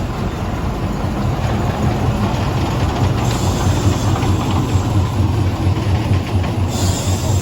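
British Rail Class 03 diesel shunter running, its Gardner eight-cylinder diesel engine giving a low, throbbing beat that grows louder about two seconds in.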